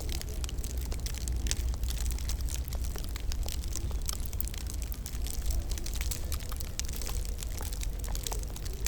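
Wood fire crackling in a fireplace: a dense, irregular scatter of small pops and snaps over a steady low rumble of the flames.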